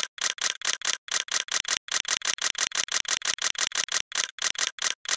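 A steady, even run of short, sharp, hissy clicks, about five a second, high in pitch.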